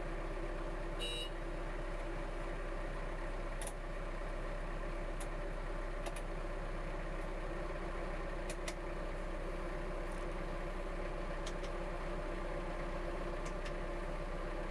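Iseki GEAS41s tractor's diesel engine idling steadily. A short high beep sounds about a second in, and a few faint ticks come later.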